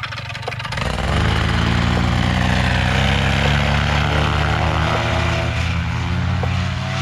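Paramotor engine and propeller throttled up about a second in, then running steadily at high power.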